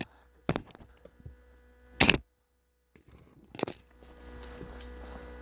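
A few sharp cracks or knocks: one about half a second in, a louder one about two seconds in that cuts off into a moment of dead silence, and another about three and a half seconds in. A steady hum follows.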